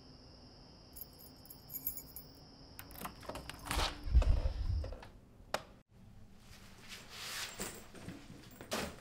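A bunch of keys jingling, then clicks and a heavy low thump as a front door is unlocked and pushed open, followed by further knocks and handling noise of the door.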